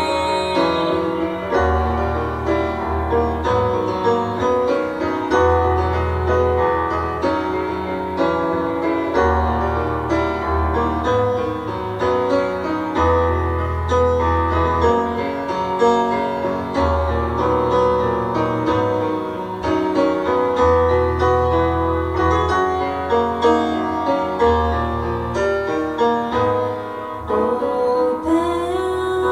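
Live music led by keyboard chords over a bass line, the bass note changing about every one to two seconds; little or no singing.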